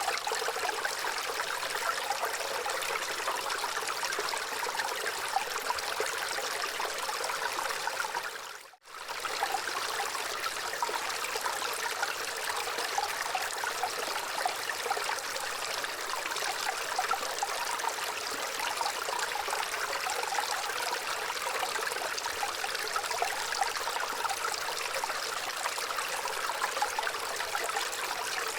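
Gentle running water trickling steadily, a soft stream sound with little low rumble. About nine seconds in it briefly fades out and straight back in.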